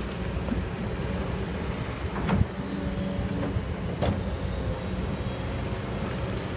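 Kobelco excavator's diesel engine running steadily, with a sharp clank a little over two seconds in and a lighter one about four seconds in.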